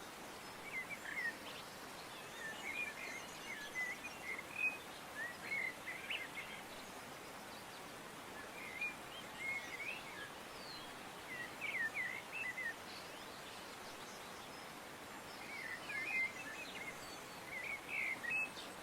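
Small birds chirping in short, scattered bursts every few seconds over a steady background hiss.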